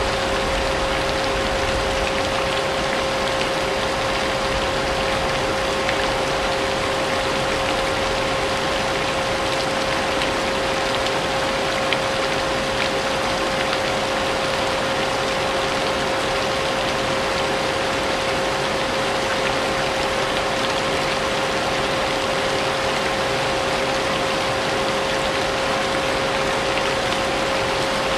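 Vacuum cleaner running steadily with a constant motor whine, mixed with a continuous rain sound.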